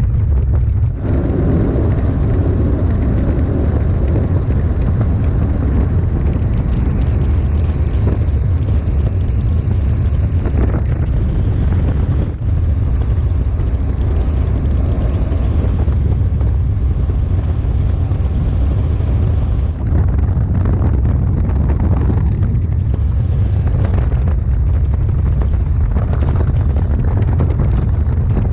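Robinson R44 helicopter in flight, heard from the cabin with the doors off: a steady, loud drone of rotor and engine with wind buffeting the microphone.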